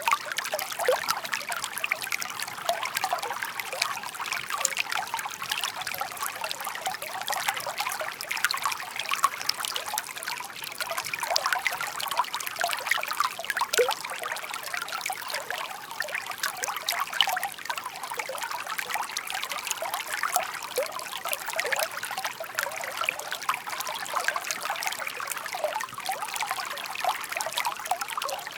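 Shallow stream of water burbling and trickling steadily over stones, a continuous murmur full of small quick gurgles and splashes.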